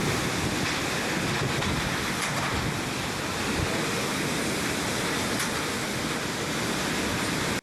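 Storm noise from strong wind and heavy rain: a dense, steady rushing hiss that cuts off suddenly at the end.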